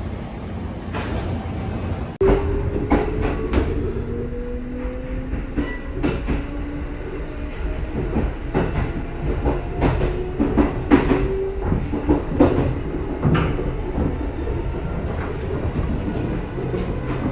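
Kintetsu 1436 series + 1620 series electric train moving through the station, its traction motors whining in a tone that rises slowly in pitch, and its wheels clacking over rail joints.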